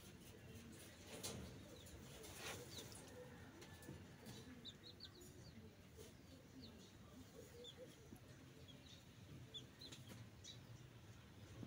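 Near-quiet background in which birds chirp faintly: scattered short, high chirps, most of them in the second half, with a few light clicks.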